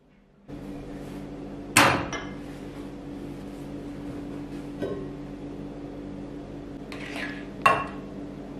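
A steady electric hum switches on about half a second in. Two loud, sharp knocks of hard objects come about a second and a half in and near the end, with a lighter one in between.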